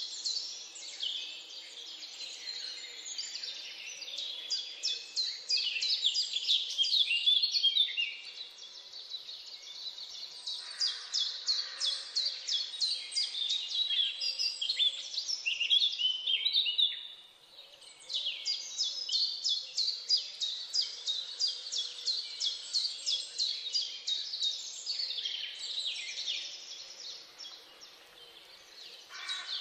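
Birds chirping in a dense chorus of quick, repeated high calls, dropping away briefly a little past halfway.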